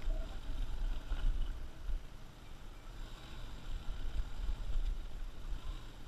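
Motorcycle running at low revs, heard mostly as an uneven low rumble mixed with wind buffeting the microphone.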